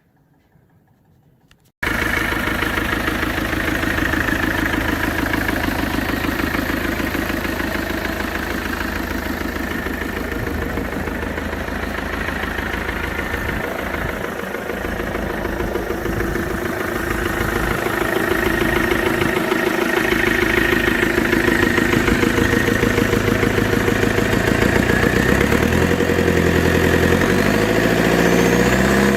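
Ferguson TE20 tractor's Land Rover 300Tdi four-cylinder turbodiesel running, cutting in abruptly about two seconds in. It runs steadily, then revs up near the end.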